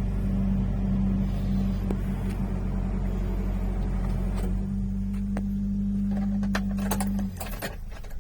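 Subaru Sambar kei truck engine idling steadily, then switched off about seven seconds in. A few sharp clicks and knocks follow.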